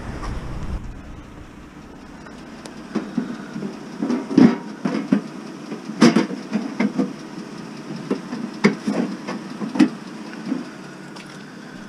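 Scrap metal being handled: an irregular run of knocks and clanks, the loudest two near the middle.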